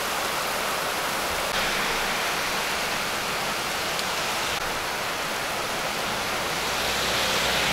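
Heavy tropical downpour falling steadily, a dense even hiss of rain on pavement and grass.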